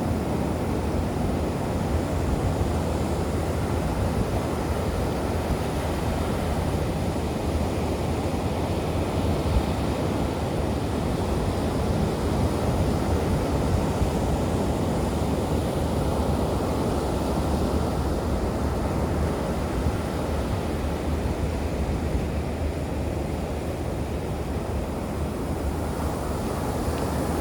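Steady low rush of ocean surf and wind, with no distinct breaking waves standing out.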